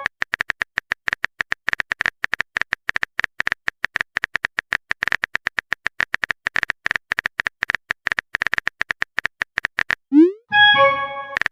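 Rapid phone-keyboard tapping sound effect, several clicks a second, as a message is typed out. About ten seconds in, a quick rising swoosh and a short chime, the message-sent sound.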